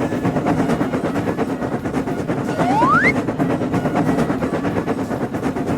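Animated train sound effect: a steady, rapid rattle of wheels running on rails, with one short tone rising in pitch about three seconds in.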